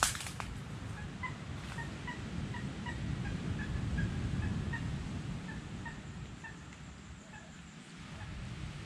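A bird calling a run of short, clipped notes, about three a second, which stop a couple of seconds before the end. A sharp snap is heard right at the start, and a steady low wind-like rumble runs underneath.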